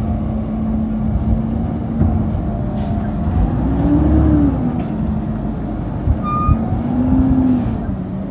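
Garbage truck engine running with a steady hum, revving up and back down about three and a half seconds in and again briefly near the end.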